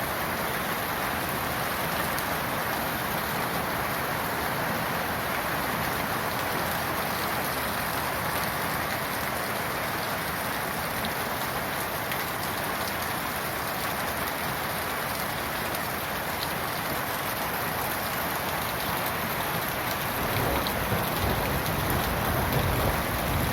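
Heavy summer downpour: dense, steady rain hiss with scattered drop ticks. About twenty seconds in, a low rumble joins and the rain grows a little louder.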